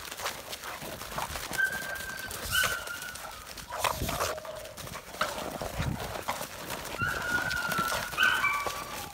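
Dogs play-fighting: short, high whines and yips from the puppies, twice in clusters, over a constant patter of paws and claws scuffling.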